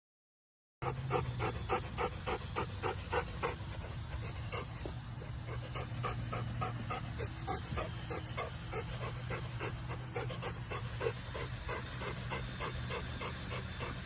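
A dog panting quickly and steadily, about four breaths a second, starting just under a second in, over a steady low hum.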